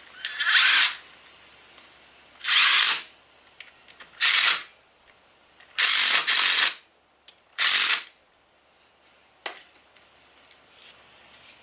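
Power drill-driver running bolts into the engine side cover in six short bursts, each under a second, with pauses between, followed by one faint click.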